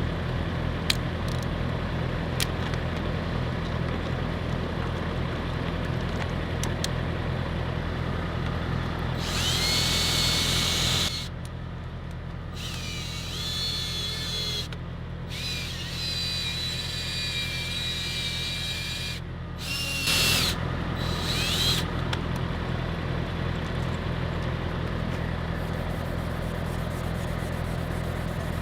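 Electric drill spinning an 800-grit wet-sanding pad on a plastic headlight lens. It whines in four separate runs between about a third and three quarters of the way through, its pitch rising and falling with speed near the last run. A steady low hum sits underneath throughout.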